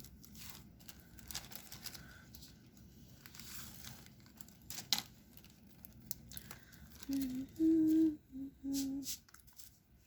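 Small clicks, taps and crinkles of diamond painting work: a drill pen picking up resin drills and pressing them onto the sticky canvas. About seven seconds in, a woman hums a few notes of a tune.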